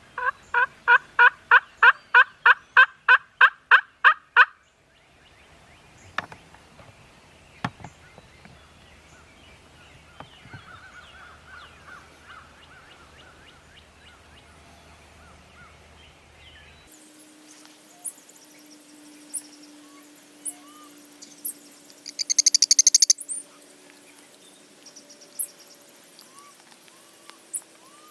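A turkey yelping: a loud run of about sixteen evenly spaced notes in the first few seconds, with a fainter run of yelps later. About two-thirds through there is a brief rapid high-pitched trill.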